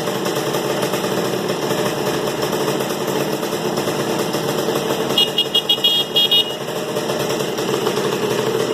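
Yamaha DT 125's single-cylinder two-stroke engine running steadily at idle. About five seconds in, a rapid series of short high-pitched beeps sounds for just over a second.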